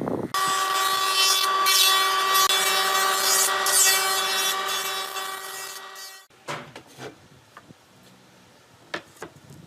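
Power tool cutting into wood: a steady motor whine at fixed pitch under rough cutting noise. It stops abruptly about six seconds in, followed by a few light knocks.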